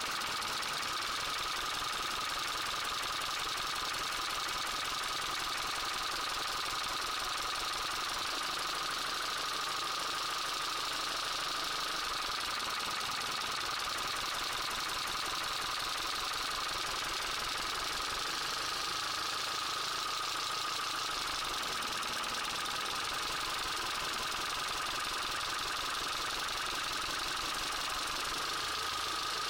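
Car engine idling with a fast, steady knocking and rattling from inside the engine, run with spark plugs being disconnected one at a time to find which cylinder the knock comes from.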